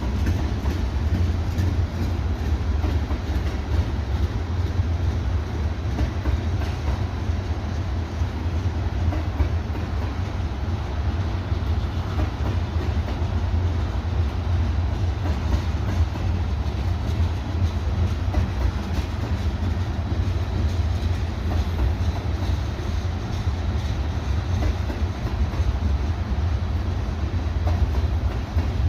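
Freight train cars rolling past: a steady low rumble of steel wheels on rail, with a running clickety-clack of wheels over the joints.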